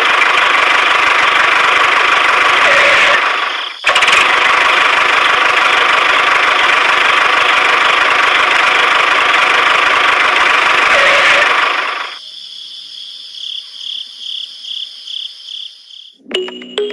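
Small electric motor of a DIY model tractor running loud and steady with a constant whine, cutting out for a moment about three and a half seconds in, then stopping about twelve seconds in. A softer series of evenly spaced high beeps follows.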